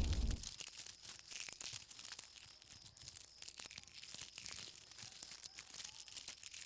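Faint, irregular crackling and rustling with scattered small clicks, following a loud sound that dies away in the first half second.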